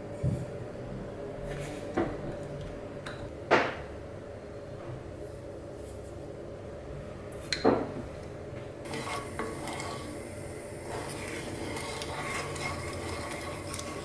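Kitchenware clinking: four sharp clinks of utensils on dishes, with short ringing tails, then a busier stretch of small clatter and scraping in the last few seconds.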